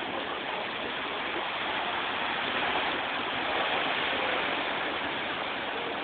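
Steady rushing of water on a street after rain, swelling a little around the middle.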